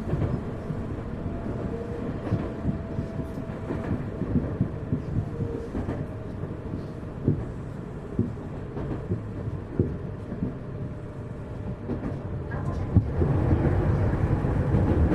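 Interior running sound of a Tokyu 1000 series electric train: a steady low rumble of wheels on track, broken by occasional sharp knocks. A faint steady tone sits in the first half, and the running noise grows louder about two-thirds of the way through.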